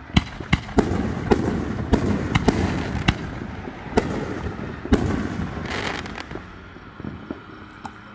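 Fireworks going off: a rapid string of sharp bangs and pops through the first five seconds, thinning to a few scattered pops near the end.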